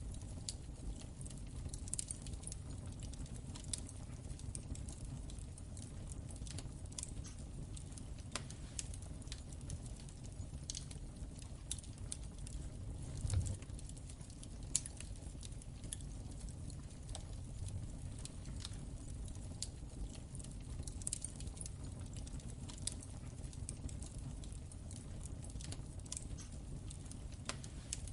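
Wood fire crackling in a fireplace: irregular small pops and snaps over a steady low rumble of the flames, with one slightly heavier thump about halfway through.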